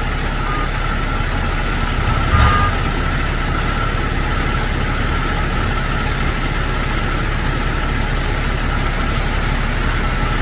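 Heavy truck's diesel engine idling steadily, with a brief thump about two and a half seconds in.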